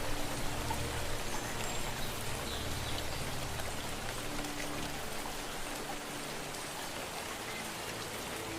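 Steady rain falling, an even patter of drops. Low held tones sound underneath at first and fade out about two-thirds of the way through.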